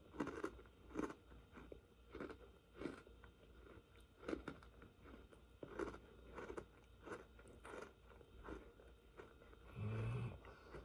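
Someone chewing Oreo chocolate sandwich cookies: faint crunchy chewing at about two chews a second, with a short low hum near the end.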